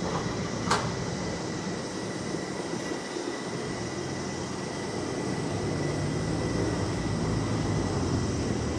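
Low-floor tram running: a steady rumble with a faint high whistle, a brief sharp squeak just under a second in, and a low motor hum that strengthens in the second half.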